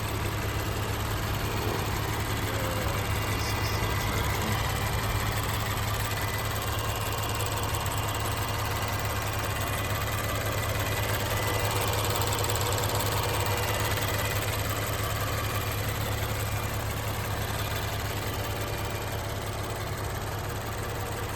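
Infiniti Q50's twin-turbo 3.0-litre V6 running steadily, a constant low hum with no revving.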